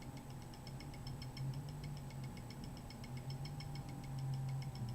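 Automatic blood pressure monitor working through a measurement: a steady low hum with a fast, even ticking of about six ticks a second.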